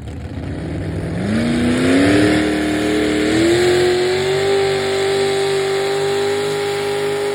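Pulling truck's engine revving up in a few quick steps, then holding steady at high revs under full throttle.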